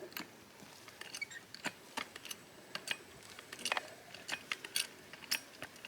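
Car jack being worked under a concrete-set fence post: scattered light clicks and ticks at irregular spacing as it lifts the post.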